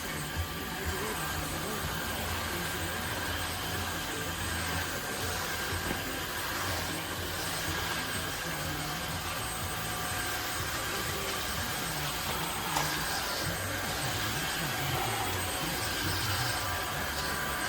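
Tineco Floor ONE S5 cordless wet-dry vacuum running: a steady motor whir with thin high tones riding on it.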